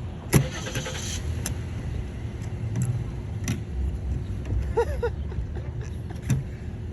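Scattered clicks and scrapes of a wire coat hanger and a wedge being worked into the gap of a car door; a sharp click about half a second in is the loudest, followed by a short hiss. A couple of brief squeaks come about five seconds in, over a steady low rumble.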